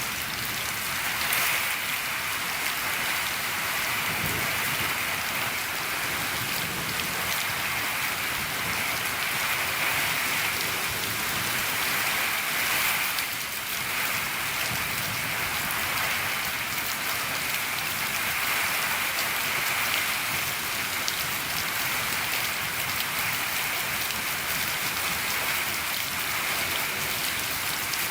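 Steady rain falling on a shed roof, a dense, even patter of drops.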